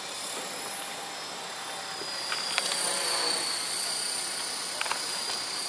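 Radio-controlled model helicopter flying, its motor and rotors giving a steady high whine over a hiss. The whine dips slightly in pitch about halfway through.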